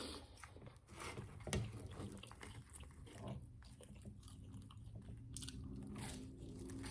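Close-miked eating: biting and chewing food, with small wet mouth clicks and one sharper click about a second and a half in.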